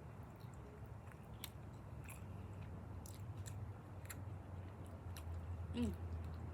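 Person chewing a honey barbecue chicken wing close to the microphone, with scattered small wet mouth clicks. A brief voice sound comes near the end.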